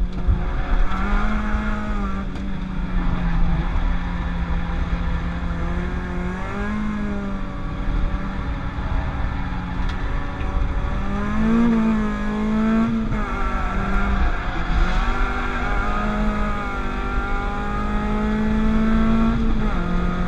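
Peugeot 205 GTI with a 206 RC 2.0 litre 16-valve four-cylinder engine lapping a circuit under load. The revs climb and drop several times as it takes gears and corners, over a steady rumble of road and wind noise.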